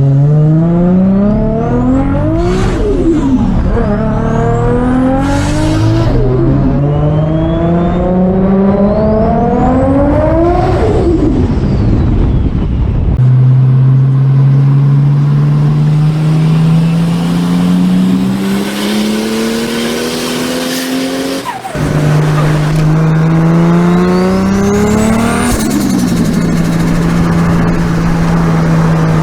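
Big-turbo car engine pulling hard through several gear changes. Its pitch climbs and falls with each shift, and a high turbo whistle rises under boost, with a burst of released boost at each lift-off. Further on it makes a long steady pull in a higher gear, drops off sharply, then pulls once more with the whistle climbing before settling.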